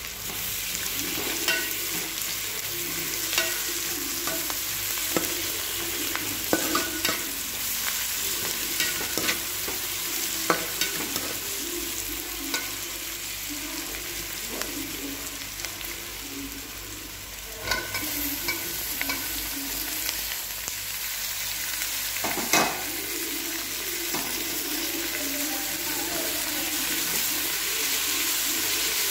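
Sliced onions sizzling in hot oil in a metal pot, stirred with a perforated metal skimmer spoon, with scattered clinks and scrapes of the spoon against the pot.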